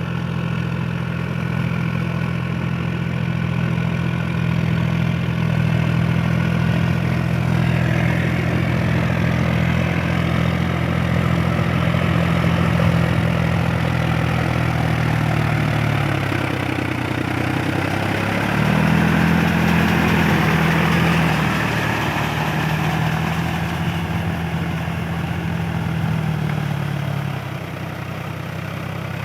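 Powertrac Euro 47 tractor's diesel engine running steadily under load while puddling in deep mud. Its pitch sags about midway and again near the end, then picks back up, with a rushing noise over the middle stretch.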